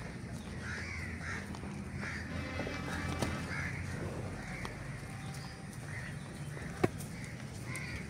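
Birds calling over and over in short rising-and-falling calls, about one or two a second, over a low steady hum. A single sharp knock comes near the end.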